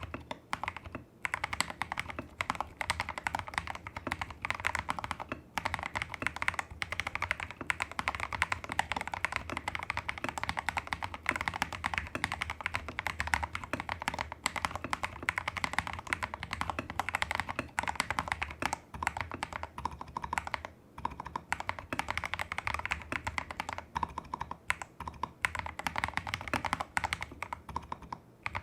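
Tester68 custom mechanical keyboard with lubed Holy Panda clone tactile switches, a taped PCB, modded stabilizers and XDA-profile keycaps, typed on quickly and continuously. Many rapid keystrokes, with a few brief pauses in the typing.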